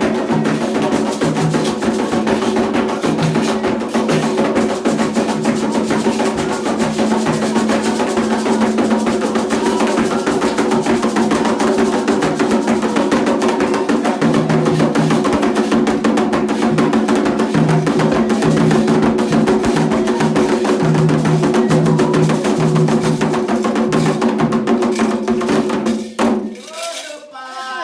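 Candomblé ceremonial drumming: drums with a clacking, wood-block-like beat in a fast, dense rhythm. It stops abruptly near the end, and a single voice begins.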